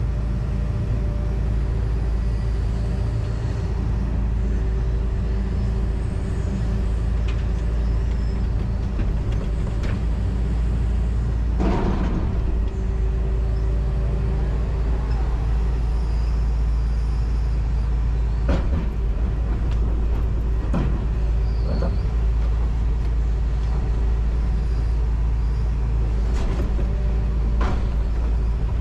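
John Deere 245G excavator's diesel engine running steadily, heard from inside the cab, with a few short knocks and clunks from the machine working, the strongest about twelve seconds in.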